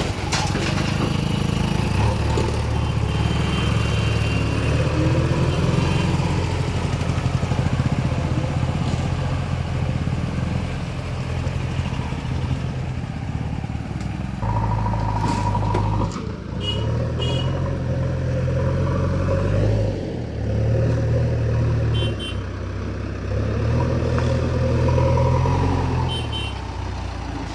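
Diesel engine of a JCB 3DX backhoe loader running hard, then revving up and easing off in repeated surges of a few seconds each in the second half, as the hydraulics work under load.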